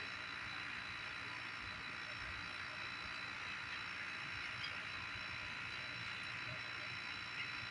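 Steady outdoor night ambience: an even hiss with a few thin, high, unchanging tones over it.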